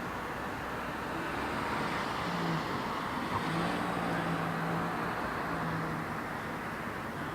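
Road traffic: steady noise from a passing car, swelling and then easing off about halfway through.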